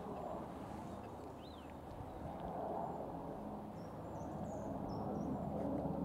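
Faint songbird calls over a steady outdoor background hum: one quick rising-and-falling chirp about a second and a half in, then a handful of short, thin high notes around four to five seconds in.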